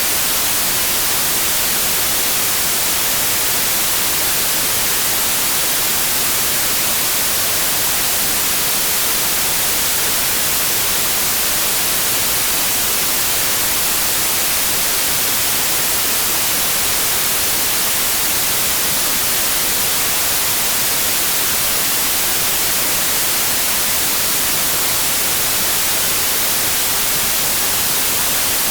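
Steady white noise: an even, unchanging hiss, brightest in the high end, with no tones or breaks.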